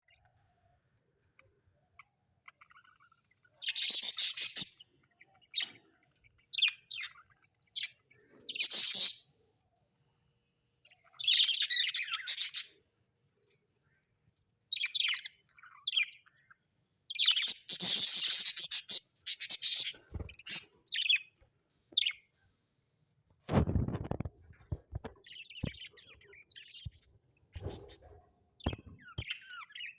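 Budgerigars chirping and chattering in irregular bursts with short pauses between them. A low thump comes about three-quarters of the way through, and a few soft clicks follow near the end.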